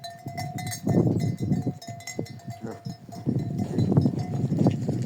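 A bell on a goat ringing with a steady tone that comes and goes, over many short knocks of hooves from a goat flock moving about.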